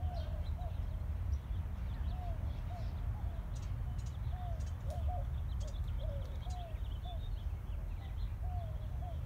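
Birds calling in a park: short rise-and-fall notes repeated throughout, often in pairs, with thin higher chirps over them. A steady low rumble runs underneath.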